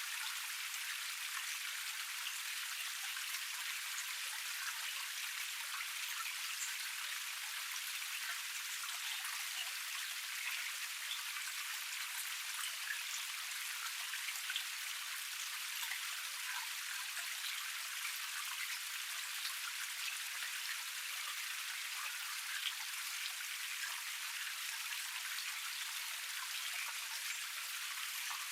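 Water pouring steadily over a small forest cascade: an even rush with fine splashing and spatter all through, with no deep low rumble.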